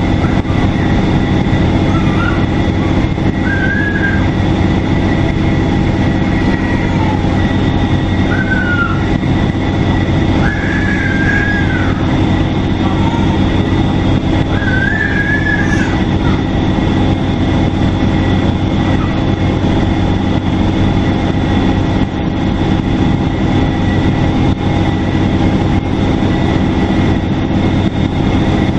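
Detroit Diesel Series 50 engine of a 2002 NABI 40LFW transit bus running steadily, with a high steady turbocharger whistle above the drone. A few short high squeals come and go in the first half.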